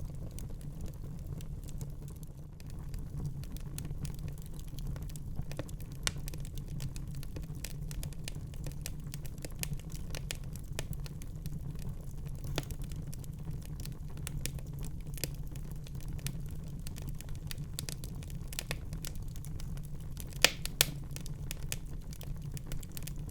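Wood fire crackling in a fireplace: a steady low rumble of flames under scattered sharp pops and snaps, with two louder pops near the end.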